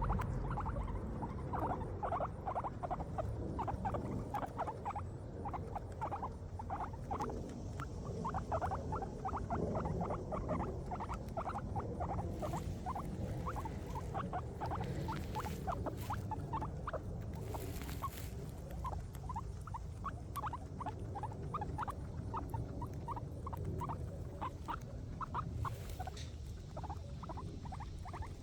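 Guinea pigs chewing grass: rapid, continuous crisp crunching, with a few brief rustles.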